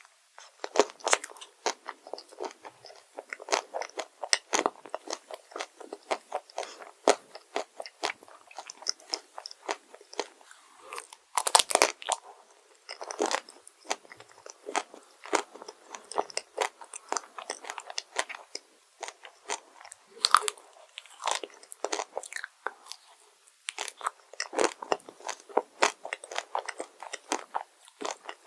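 Close-miked crunchy biting and chewing of chocolate desserts: a steady run of sharp crackling crunches, with a few louder bites along the way.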